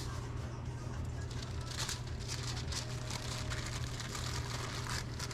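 Restaurant kitchen background during service: a steady low hum of kitchen equipment, with short bursts of rustling and clatter about two, three and five seconds in.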